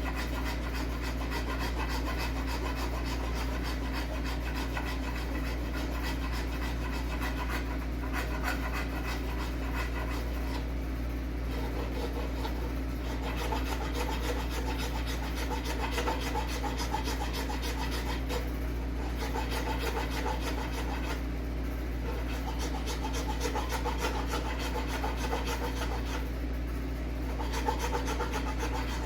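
Hand tool shaping an apple-wood handle in steady back-and-forth rasping strokes, with a few short pauses.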